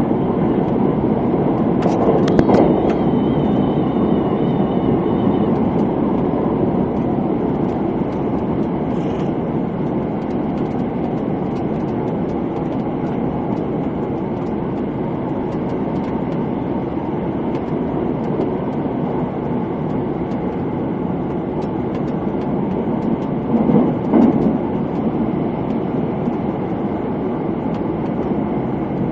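Steady running rumble of the Thunderbird limited-express electric train, heard inside the passenger car: wheels on rail and motor noise at speed. Near the start there is a click followed by a faint high whine for a few seconds. About three-quarters of the way through there is a brief louder surge.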